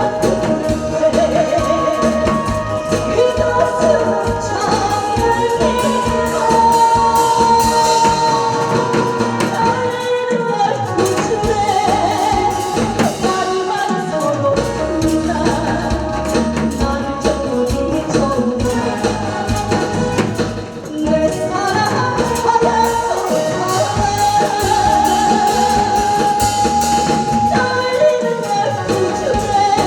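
A singer performing a Korean trot song with held, wavering notes over full musical accompaniment.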